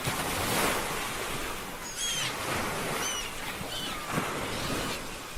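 Ocean surf washing and breaking on a shore, swelling and easing. A few short, high chirps come through in the middle.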